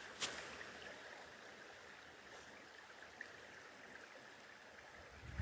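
Faint, steady rush of a woodland stream's running water. A short click comes just after the start, and a low thump comes right at the end.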